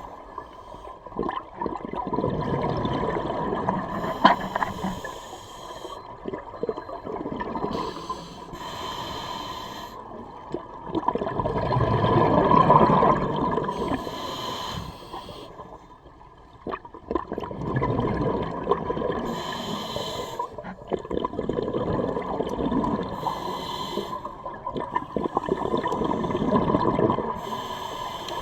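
Scuba diver breathing through a regulator underwater: a short hissing inhale every few seconds, then the bubbling of exhaled air, over a faint steady tone.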